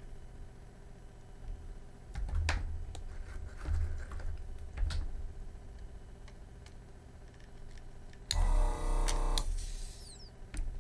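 The desoldering station's vacuum pump buzzes for about a second near the end as the gun's trigger is pulled to suck up molten solder. Before that come scattered light clicks and knocks of the gun and board being handled.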